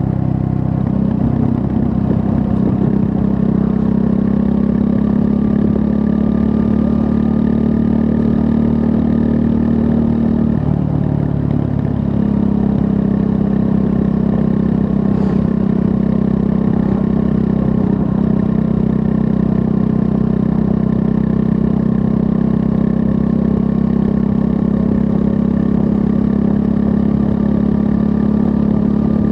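2024 Triumph Scrambler 400 X's 398 cc single-cylinder engine running steadily while riding. Its note dips and wavers briefly about ten seconds in, then settles back to a steady pitch.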